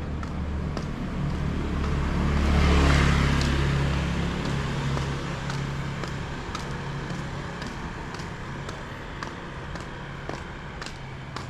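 A motor vehicle passing close by on the street: its engine hum and road noise swell to a peak about three seconds in, then slowly fade. Footsteps tick steadily underneath.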